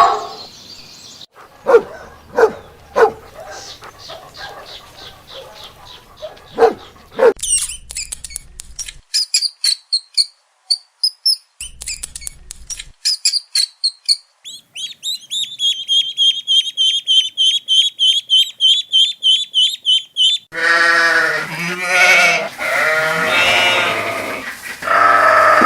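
A run of different animal calls in turn: scattered short calls, then fast, high, rapidly repeated chirping for several seconds, then loud wavering pitched calls over the last five seconds.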